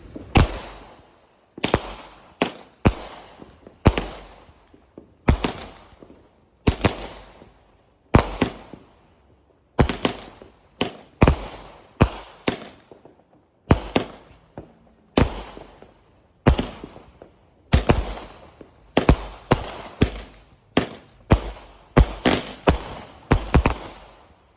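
A multi-shot consumer firework firing a long run of sharp bangs, about one a second, each ringing out and fading before the next.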